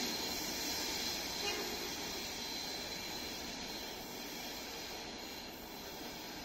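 Coaches of a locomotive-hauled night train rolling out of the station, the rumble of wheels on rail slowly fading as the train draws away, with a thin steady high tone over it.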